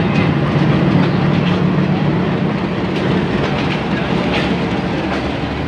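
Train wheels running on rails, a steady loud rumble with irregular clatter, close through an open carriage window as a passenger train's coaches pass on the adjacent track.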